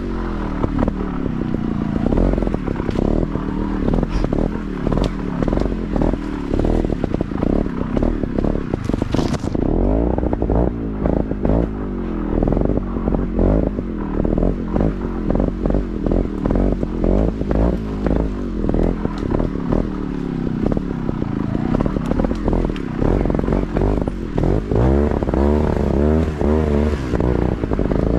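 Motorcycle engine running and being ridden off-road, its pitch rising and falling repeatedly with the throttle, with frequent clattering and knocking throughout.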